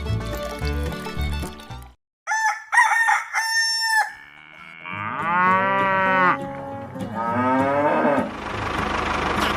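Background music stops about two seconds in. Farm-animal calls follow: three short high-pitched calls, then two long cow moos.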